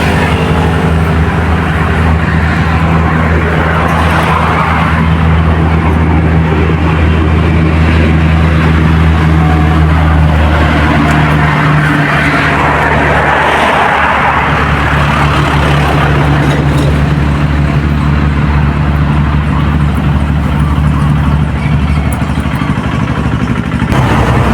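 A loud, steady engine drone with a low hum that shifts slightly in pitch around the middle.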